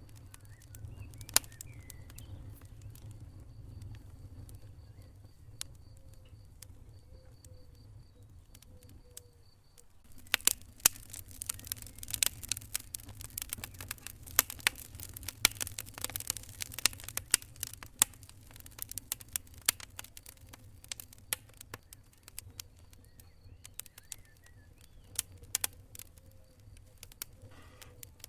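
Wood fire in a fireplace crackling: irregular sharp pops and snaps over a low steady rumble of burning, with the popping thickest from about ten seconds in to about twenty seconds.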